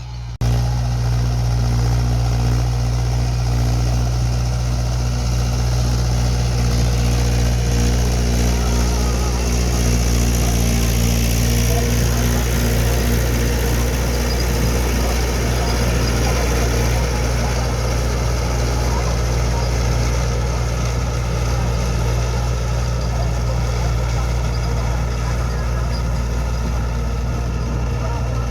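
Tractor's diesel engine running steadily under a constant throttle. It gets louder about half a second in.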